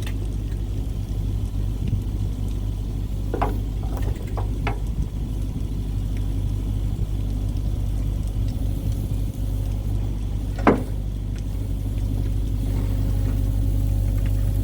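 Compact excavator's diesel engine idling with a steady low rumble, with a cluster of sharp clanks about three to five seconds in and one louder clank near eleven seconds, as the machine is unhooked from its bucket.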